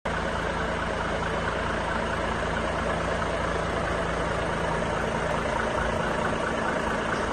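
Volvo FH 500 truck's 13-litre inline-six diesel engine idling steadily.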